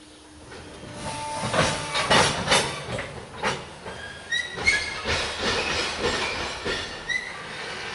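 Loaded coal hoppers of a long freight train inching forward from a stop on a grade: couplers banging in quick irregular clanks as the slack runs out, mixed with short high squeals from the wheels and brakes. It grows louder from about a second in.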